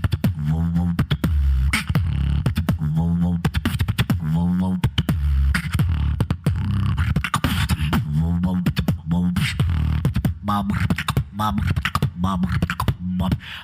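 A solo beatboxer performing: deep vocal bass notes that swoop and bend in pitch, cut up by sharp kick, click and snare sounds in a fast, steady rhythm.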